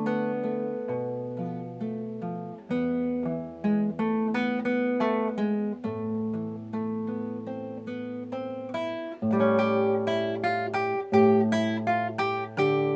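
Acoustic guitar playing plucked, arpeggiated chords over bass notes, with no voice. The playing grows louder about two-thirds of the way through.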